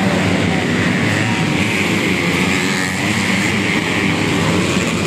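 Racing underbone motorcycle engines running hard and revving, with one growing louder through the middle of the stretch.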